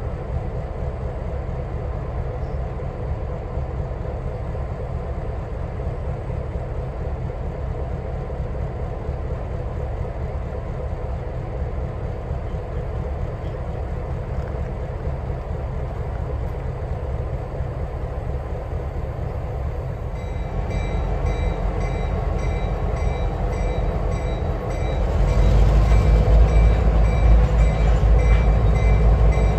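Diesel-hauled train running by with a steady low rumble that grows louder about 25 seconds in as it draws close. High, repeated ringing tones join about 20 seconds in.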